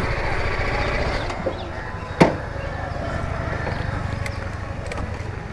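Motorcycle engine idling with a steady low rumble while being parked, with one sharp click about two seconds in.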